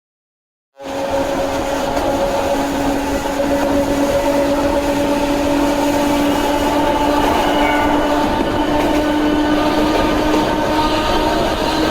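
Narrow-gauge electric train running, its nose-suspended traction motors and gears giving a whine that rises slowly in pitch as the train gathers speed, over the rumble of the running gear. The sound cuts in abruptly about a second in.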